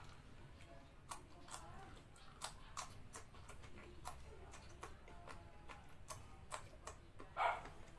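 Faint, irregular clicks and smacks of a mouth chewing raw red chili peppers, with one louder wet mouth sound near the end.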